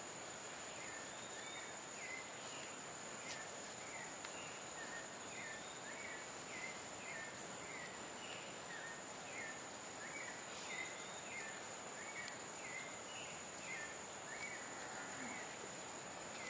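Outdoor ambience: a bird calling in a long series of short, sliding chirps, about one or two a second, over a steady high hiss.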